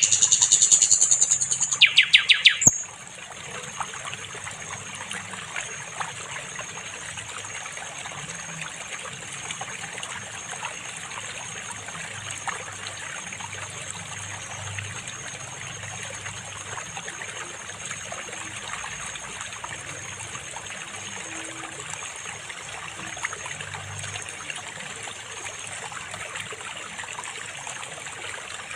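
A sikatan londo flycatcher sings a loud phrase of rapid, trilled high notes, cut off about three seconds in. After that a stream trickles steadily, with a thin high steady tone over it.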